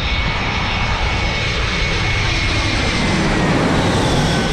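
Jet airliner engines at close range, a loud roar with a high whine that slowly falls in pitch as the aircraft passes.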